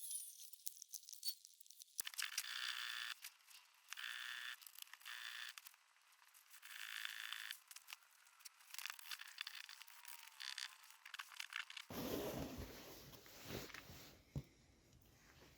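Repeated bursts of scraping on small engine parts, each lasting about a second. About twelve seconds in, the sound changes to a rougher, fuller noise.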